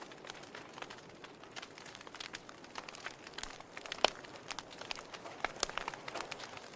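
Wood fire crackling in a fireplace: irregular sharp pops and snaps over a soft hiss of burning logs, with one louder pop about four seconds in.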